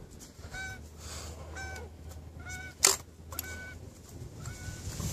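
Goose honking: five short, evenly spaced honks, about one a second. A single sharp crack sounds near the middle.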